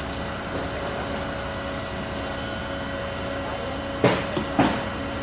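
Steady drone of running construction machinery with a few fixed pitches in it, broken near the end by two loud knocks about half a second apart.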